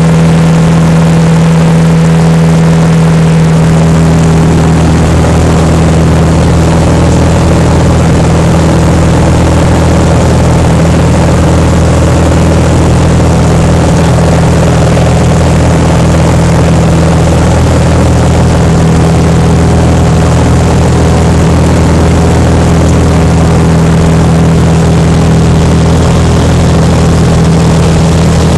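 Cessna 182P's six-cylinder Continental O-470 engine and propeller running at steady power, heard from inside the cabin as a loud, even drone with a strong low hum. The low end fills out slightly about four seconds in.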